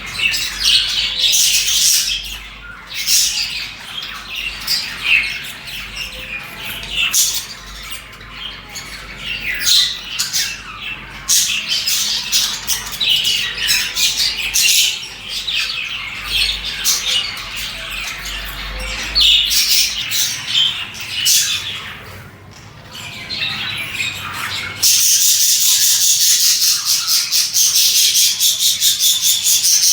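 Budgerigars chirping, chattering and squawking in quick irregular calls. About 25 s in this gives way abruptly to a steady, fast, high rasping sound.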